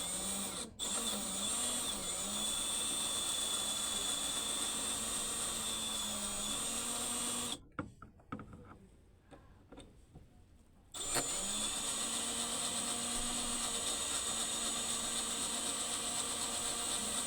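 Power drill running at a steady speed for about seven seconds, stopping, then after a pause with a few clicks running steadily again for about seven seconds.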